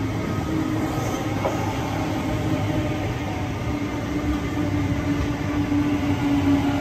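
Double-deck electric suburban train rolling along the platform, a steady rumble of wheels on rail with a steady motor hum that gets a little louder in the second half.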